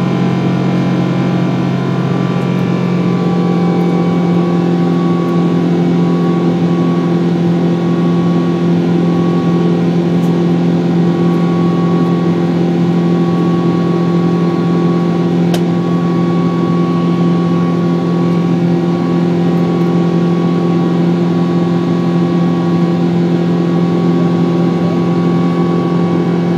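Cabin drone of a Boeing 777's jet engines under power, heard from inside the passenger cabin: a loud, steady roar with several steady humming tones. A single faint click about halfway through.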